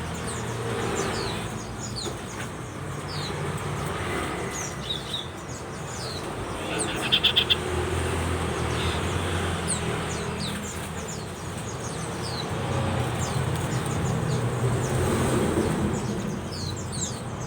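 A group of common ioras calling: many short, high, falling whistled notes, with a brief loud run of rapidly repeated notes about seven seconds in, over a steady low hum.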